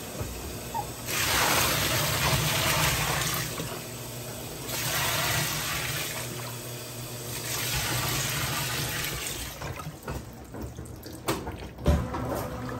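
Brastemp 17 kg washing machine running its wash cycle: water rushing and sloshing in three swells a few seconds apart over a low steady hum, then a few sharp knocks near the end.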